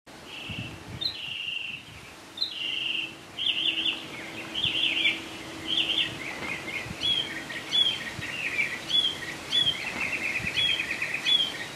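Songbirds singing and calling from the trees: repeated buzzy phrases at first, then short downslurred whistles about twice a second and a fast trill near the end, over a faint steady hum.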